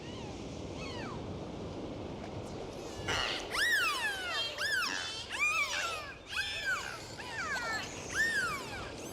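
Steady rush of surf, then from about three seconds in many overlapping, high, arching cries from a group of animals, several a second.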